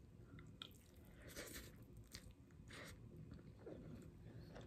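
Faint, irregular chewing and wet mouth sounds of a person eating a mouthful of rice with pork and greens.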